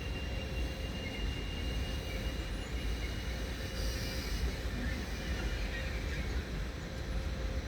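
Electric train in the station hall: a steady low rumble with a faint steady high-pitched whine, and a short hiss about four seconds in.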